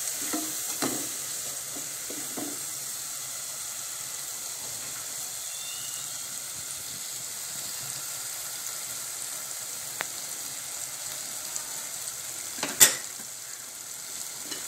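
Spice paste sizzling steadily in hot oil in a pan as it is fried down; the oil is starting to separate, a sign the masala is nearly cooked. A sharp knock sounds near the end.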